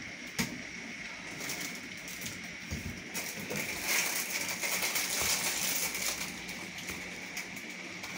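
Rain falling steadily on rooftops, with many small ticks of drops; it comes down harder for a couple of seconds from about four seconds in.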